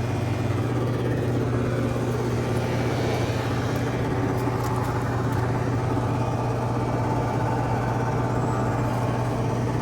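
Large Rheem central air conditioner condensing unit running: the steady hum of its LG scroll compressor under the even whoosh of the condenser fan.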